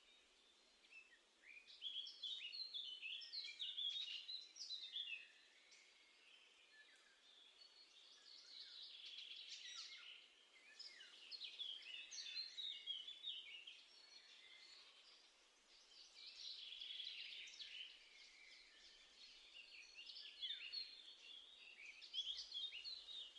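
Small songbirds singing outdoors: bursts of quick, high twittering chirps and phrases a few seconds long, five times, with short quiet gaps between, over a faint background hiss.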